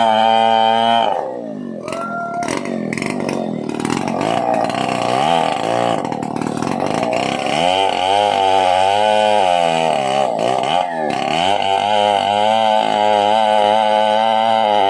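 Stihl 070 two-stroke chainsaw engine running at high speed, dropping to a low speed about a second in, then revved up and down several times before holding a steady high speed again for the last few seconds.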